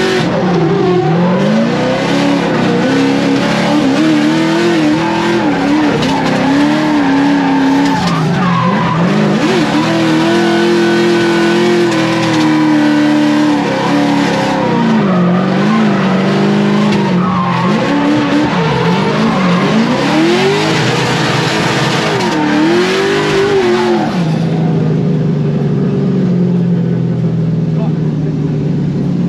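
Drift car engine revving hard, its pitch swinging up and down again and again, with tyres squealing through the run. About three-quarters of the way in it settles to a steadier, lower engine note as the run ends.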